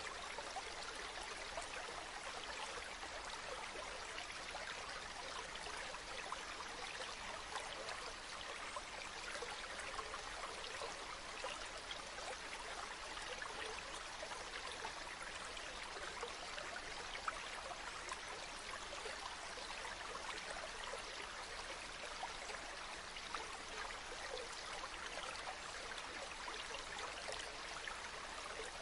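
A small stream babbling and trickling steadily.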